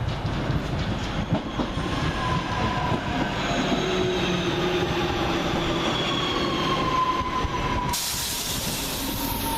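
Class 323 electric multiple unit running into the station and slowing, with a high whine of several tones that slowly falls in pitch over a low rumble. A sudden hiss comes in about eight seconds in.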